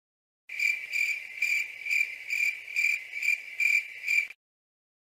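Crickets chirping: a high trill pulsing a little over twice a second that starts about half a second in and cuts off just past four seconds. This is the stock 'crickets' comedy sound effect used to mark an awkward silence.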